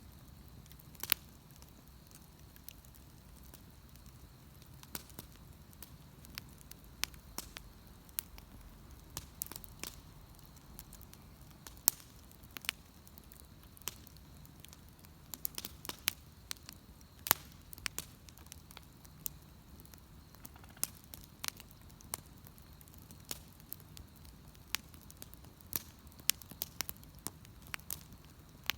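Wood bonfire burning with irregular sharp crackles and pops over a low, steady background.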